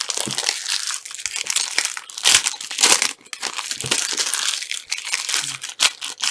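Trading-card packaging crinkling and crunching as it is handled, in irregular bursts; foil pack wrappers and plastic being worked by hand during a card break.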